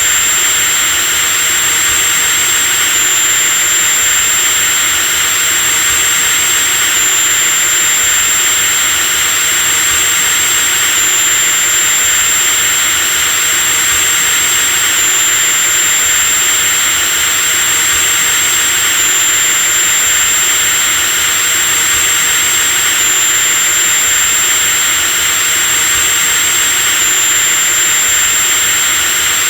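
Electric drill running continuously at a steady speed: an even motor hiss under a high-pitched whine.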